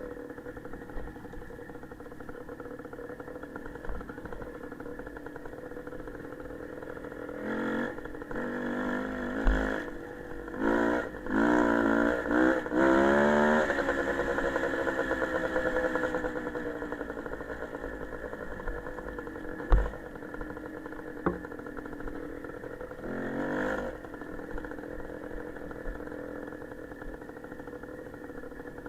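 Small motorcycle engine idling, revved in several quick blips; the last one climbs higher and winds slowly back down to idle. Another short blip comes near the end, and there are a couple of sharp knocks.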